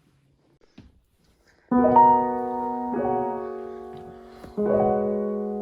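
Near silence, then background piano music comes in about a second and a half in: slow, sustained chords, changing every second or two.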